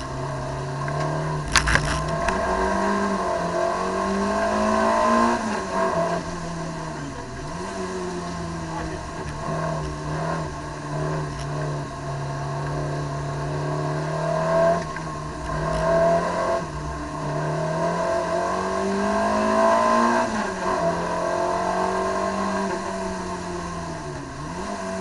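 Citroën AX GTI's four-cylinder petrol engine heard from inside the car under load. Its note holds steady for stretches, climbs and drops back several times as the driver shifts and lifts, with a sharp knock about a second and a half in.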